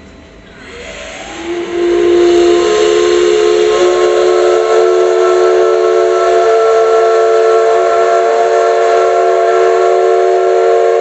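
Steam whistle of the C62 2 steam locomotive, blown in one long, loud blast of about ten seconds. It opens with a hiss of steam, slides briefly up in pitch, then sounds a steady chord of several tones.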